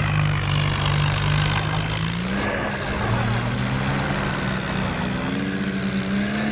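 Tractor engine running steadily, its pitch rising about two seconds in and climbing gradually again through the second half as the engine speeds up.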